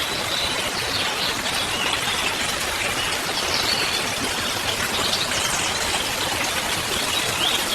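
Duck skewers sizzling on a barbecue grill: a steady high hiss, with a few faint high chirps over it.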